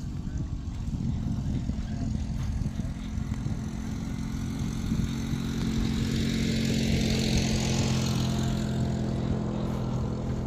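An engine running with a steady hum, growing louder to a peak about seven seconds in and then easing off, like a vehicle passing close by.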